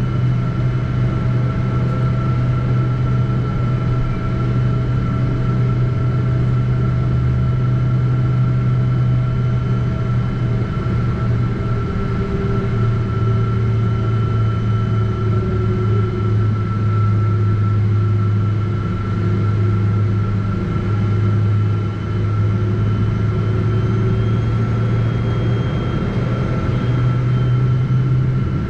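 Boeing 777-200ER heard from inside the cabin: a steady low drone with a thin steady whine over it, from the jet engines and cabin air systems running at low power.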